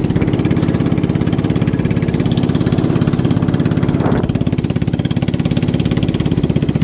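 Racing boat's engine running steadily at close range, a fast even pulsing beat with no change in speed.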